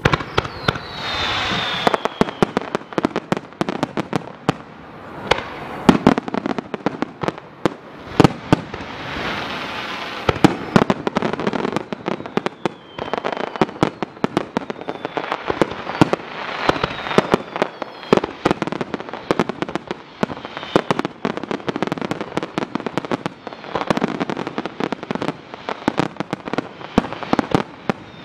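Aerial fireworks going off in a rapid-fire barrage: a dense string of sharp bangs with crackling between them, and now and then a whistle falling in pitch.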